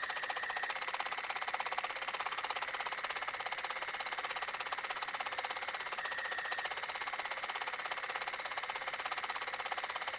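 Silver Viscount embroidery machine stitching out a design: a steady, rapid, even run of needle strokes. A brief high tone sounds twice, at the start and about six seconds in.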